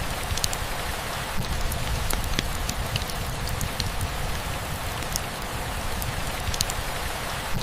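Steady rain falling, an even hiss with many separate drops pattering and ticking close by.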